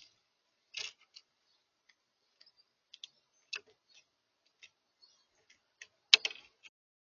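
Birds at a feeder pecking and tapping: scattered short sharp clicks at irregular intervals, with a louder cluster of taps about six seconds in.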